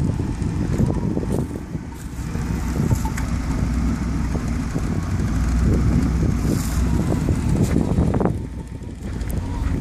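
Pontiac Fiero's swapped-in supercharged 3800 V6 idling steadily, its exhaust note running throughout, with a few light clicks on top.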